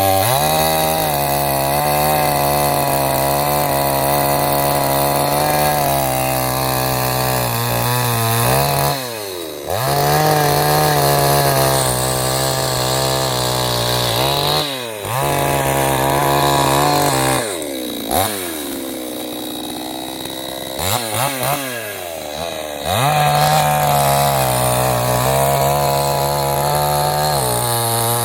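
Two-stroke petrol chainsaw running at high revs. Its speed dips sharply and climbs back about 9 and 15 seconds in. From about 17 to 23 seconds it runs lower and quieter before revving up again.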